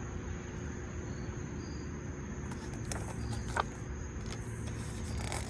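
Outdoor background: a steady low rumble with a faint, steady high-pitched insect trill over it, and a few soft clicks about three seconds in.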